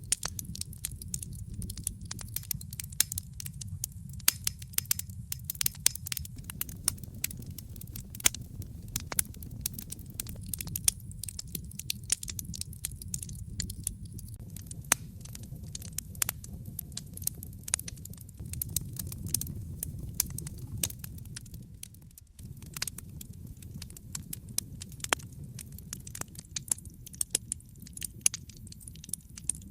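Wood fire crackling with frequent sharp, irregular pops and snaps over a low, steady rumble of flames.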